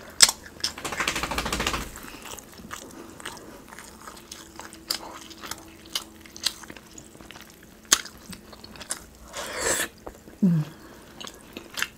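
Close-miked mouth sounds of eating sauce-covered rotisserie chicken: wet chewing and lip smacking, densest in the first couple of seconds, then scattered sharp smacks and clicks. A short falling sound comes about ten and a half seconds in.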